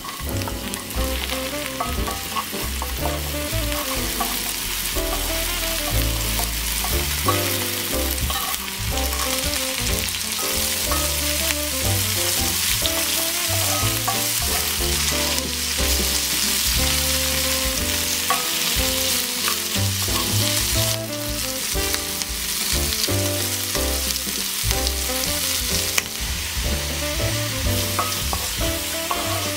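Onions, sausage slices and vegetables frying in olive oil in a cast-iron skillet, with a steady sizzle, while a wooden spatula stirs them.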